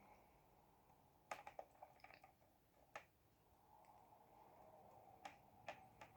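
Near silence broken by a handful of faint, sharp clicks and taps from handling a small plastic model locomotive.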